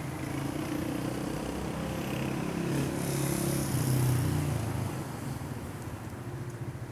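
A motor vehicle's engine running, swelling louder a few seconds in and then easing off.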